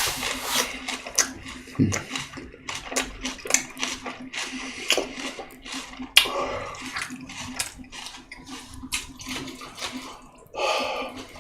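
Close-up wet chewing and lip smacking of a mouthful of a boiled pork and fermented skate wrap, many quick irregular clicks and smacks.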